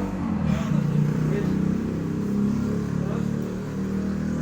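A vehicle engine running steadily under a low, even hum, a little louder about a second in.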